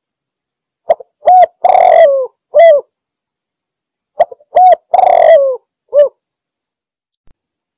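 Spotted dove cooing: two phrases about a second and a half apart, each a few short hollow coos around one longer rolling coo, the loud territorial call used to lure in rival doves.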